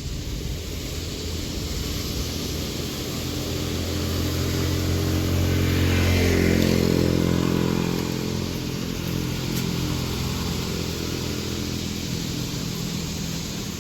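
A motor vehicle's engine passing close by, growing louder to a peak about seven seconds in and then fading away.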